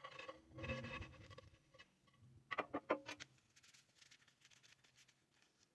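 Faint handling noise: a soft rustle or scrape in the first second, then a quick cluster of clicks and light knocks about two and a half seconds in.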